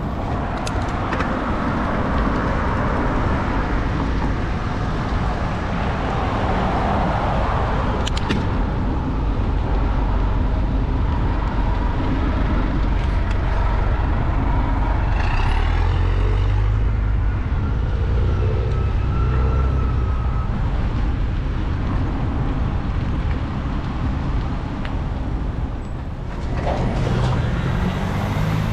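Road traffic heard from a moving bicycle: steady road and wind noise, with a motor vehicle passing close a little past halfway.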